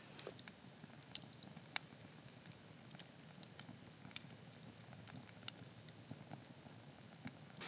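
Campfire crackling: scattered sharp pops over a faint hiss.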